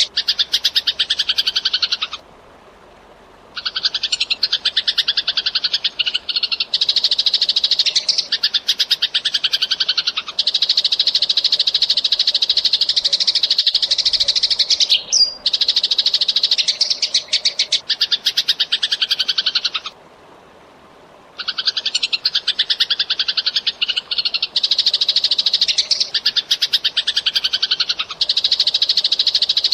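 Eurasian tree sparrow chattering in long, dense runs of rapid chirps, the fast 'gacor' calling. It breaks off briefly twice, once about two seconds in and again about twenty seconds in.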